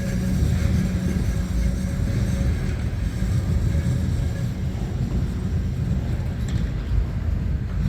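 Freight train rolling past: a steady low rumble of wheels on rail, with a faint high squeal that fades out a couple of seconds in.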